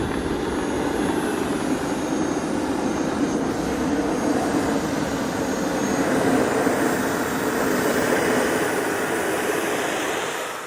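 Military jet fighter's engines running with a steady, loud roar and thin whining tones above it that slide in pitch. The roar drops away at the end.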